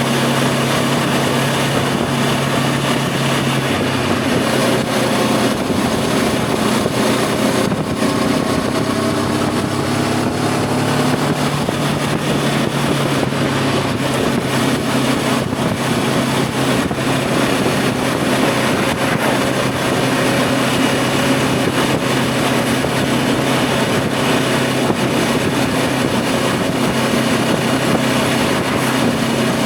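Voge 525 DSX motorcycle's parallel-twin engine running under way, with steady wind rush. The engine note shifts about four seconds in and climbs around eight to eleven seconds in as the rider accelerates.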